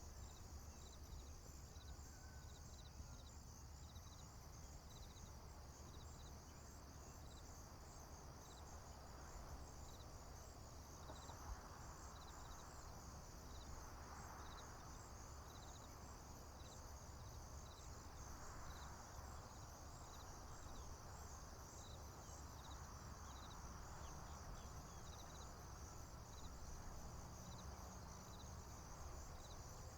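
Faint chorus of crickets: a steady high pulsing trill, with another insect chirping regularly about once a second at a lower pitch. A soft rushing swell builds and fades through the middle, over a low steady rumble.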